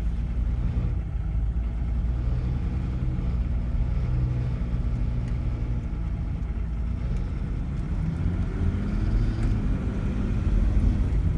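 Volvo 940 diesel running, a steady low drone with engine hum that grows a little louder near the end.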